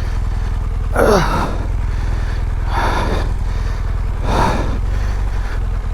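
BMW R1200GS boxer-twin engine running at low revs with a steady drone, while the rider breathes hard into the helmet microphone: three heavy exhalations, the first a falling groan, about a second in.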